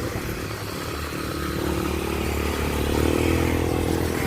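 Motorcycle engine running on the road, its note rising and getting louder about two to three seconds in as it accelerates.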